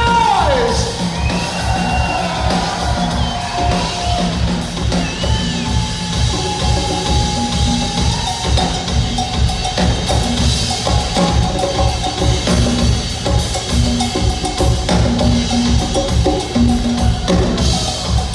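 Live rock band playing an instrumental passage: a steady driving drum-kit beat and bass under a lead instrument playing bending, sliding notes.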